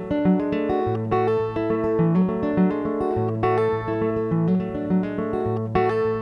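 Solo guitar playing a plucked song introduction: a run of single notes over held low bass notes, without singing.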